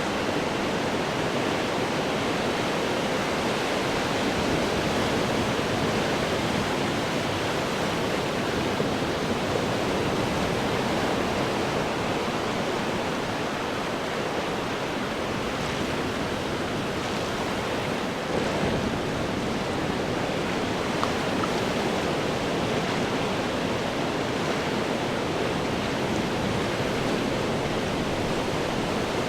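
Ocean surf breaking on rocks: a continuous dense roar of churning water with slight swells and ebbs.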